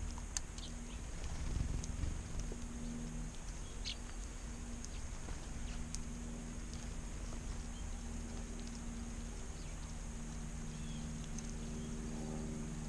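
Outdoor background with a steady low hum, and a few short, high-pitched bird chirps now and then.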